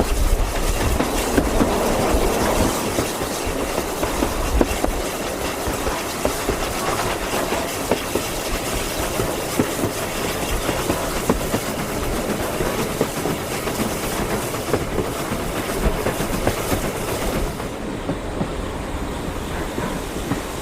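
A train running on the rails, its wheels clicking steadily over the rail joints; the higher part of the sound drops away near the end.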